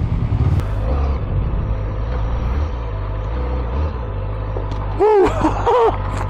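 A vehicle engine running steadily with road noise. About five seconds in, a person gives two short exclamations over it.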